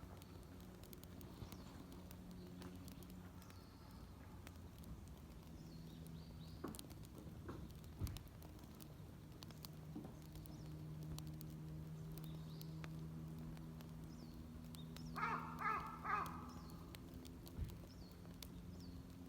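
A crow cawing three times in quick succession over a faint steady low hum, with a few scattered small clicks.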